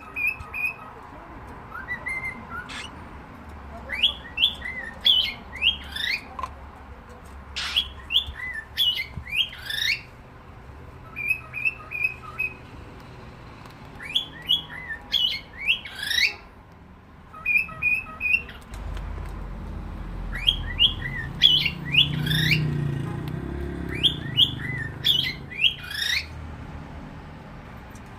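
Cockatiel calling in repeated clusters of short, rising whistled chirps, a new burst every second or two. A low rumble sits underneath for a while in the second half.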